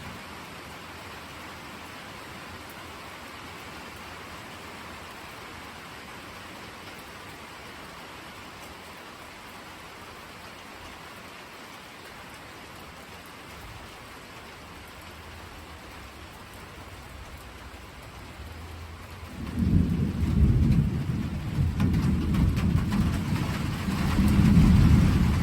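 Steady rain falling, with a faint low rumble of thunder starting just past halfway. About six seconds before the end a deep thunder rumble breaks in loudly and keeps rolling, swelling again near the end.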